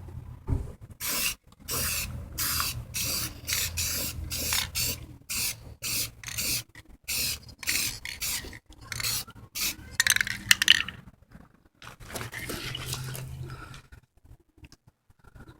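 Aerosol can of clear coat spraying in short hissing bursts, about two to three a second, as the coat goes onto a plastic brake light lens; the bursts stop about eleven seconds in.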